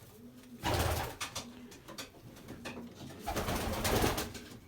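Racing pigeons cooing in short low notes, with two louder bursts of rustling noise, about half a second in and again past the three-second mark.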